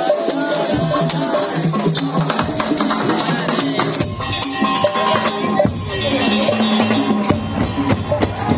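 Madurese tong-tong street band playing: a melody with drums and rattling percussion.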